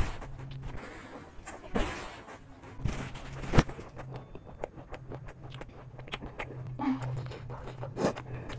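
Close-miked chewing and crunching of crunchy snacks, with irregular sharp mouth clicks and smacks; the loudest crack comes about three and a half seconds in. A faint steady low hum runs underneath.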